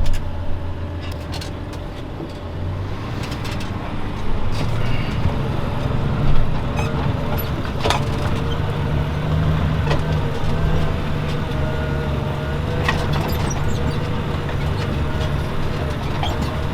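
Valtra T191 tractor's six-cylinder diesel engine running under load while pulling a plough. The engine sound builds about four seconds in, with a few scattered knocks and rattles.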